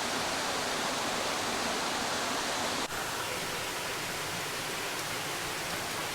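Waterfall rushing, a steady, even roar of falling water, with a brief drop about three seconds in where the recording cuts.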